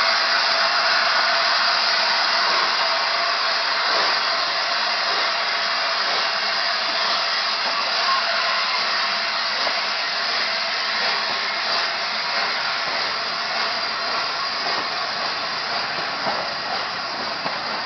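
Steam-hauled passenger train rolling past close by as LNER Peppercorn A1 Tornado pulls away: a steady rushing noise of coaches on the rails with faint irregular clicks, slowly fading.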